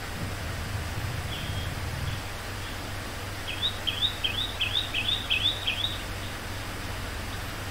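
A bird chirping about eight times in quick succession, starting about halfway through, over a steady background hiss and low hum.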